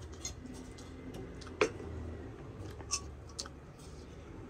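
Close-up eating sounds: a person chewing food, with wet mouth clicks and smacks. A few sharp clicks stand out, the loudest about a second and a half in.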